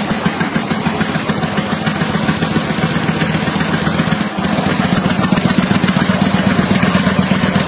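Motorcycle engine idling loudly through its exhaust with a fast, pulsing beat, briefly dipping about four seconds in and then running slightly louder.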